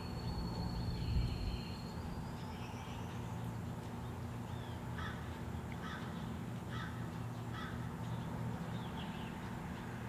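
A bird calling four times in quick succession about halfway through, short harsh calls like a crow's, over a steady low hum.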